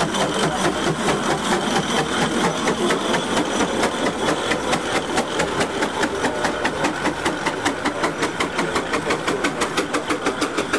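An engine running with a fast, even beat of about five strokes a second.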